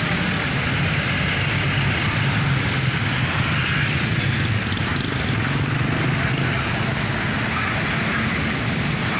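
Busy road traffic: a steady mix of engine rumble and tyre noise from passing vehicles.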